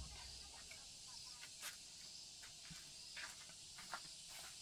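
Near silence: a faint steady high hiss of outdoor ambience, with a few soft scattered ticks and rustles.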